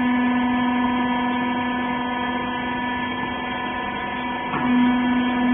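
Hydraulic baler's electric motor and pump running with a steady hum on one strong low tone. Near the end a brief click, after which the hum grows louder.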